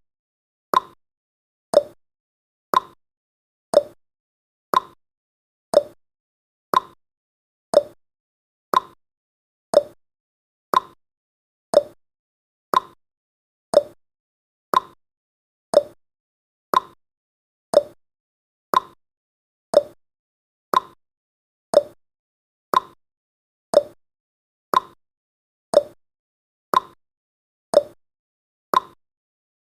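Clock tick-tock sound effect counting down: one short tick every second, alternating between a slightly higher and a slightly lower tick.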